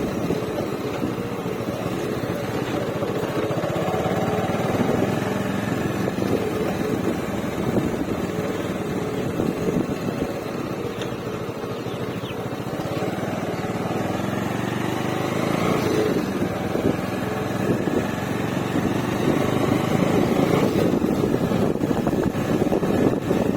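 Bajaj Avenger Cruise motorcycle's single-cylinder engine running steadily, its pitch rising and falling a couple of times as the revs change.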